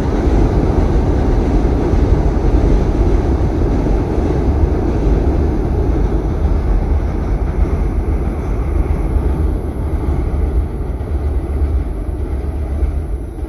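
Keisei electric train crossing a railway bridge: a steady low rumble of wheels on rails and bridge, slowly fading near the end as the train moves away.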